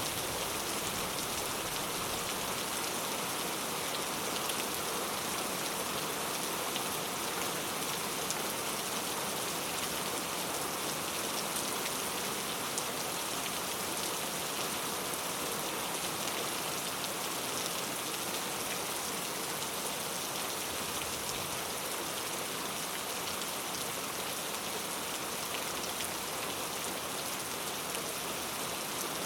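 Steady rain falling on a surface, an even hiss of many small drops.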